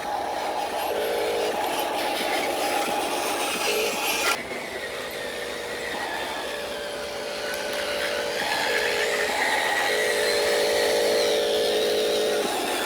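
Radio-controlled toy truck running, its electric motor and gears whining and changing pitch as the throttle varies, with a brief sharp peak about four seconds in.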